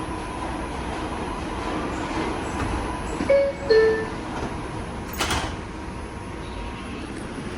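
R142 subway car's door-closing chime, two descending notes about three seconds in. About two seconds later comes a short burst of noise as the sliding doors shut, over the steady hum of the stopped car.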